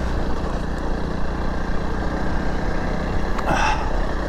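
Honda CRF300 Rally's single-cylinder four-stroke engine chugging steadily at low revs under load.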